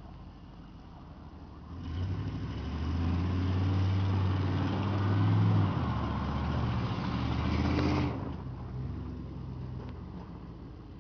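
Chevy pickup truck's engine revved hard as the truck swings through a half donut on snow. It rises about two seconds in, holds for about six seconds with a dip in pitch partway through, and drops off sharply, then carries on quietly.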